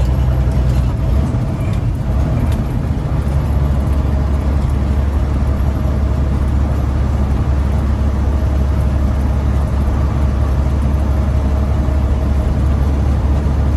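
Caterpillar diesel engine of a Freightliner Classic semi truck running under a full load, a steady deep drone with no words over it. The low tone shifts a second or two in, then holds. The engine is freshly rebuilt and still in its break-in period.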